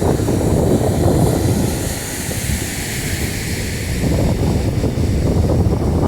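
Wind buffeting the microphone with a heavy low rumble, over breaking sea surf whose hiss swells and fades in the middle.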